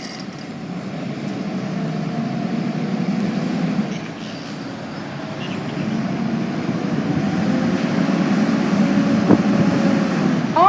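Fire engine's diesel engine running and pulling away, a low rumble that grows louder, eases for a moment about four seconds in, then builds again.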